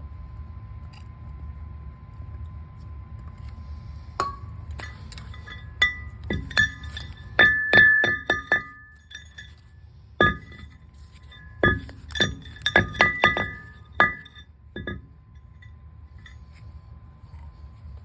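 Metal tools and steel parts clinking and tapping together, each strike ringing briefly, in irregular clusters of quick strikes during work on a boogie wheel bearing. The strikes start about four seconds in, come thickest twice, and stop about fifteen seconds in, over a steady low hum.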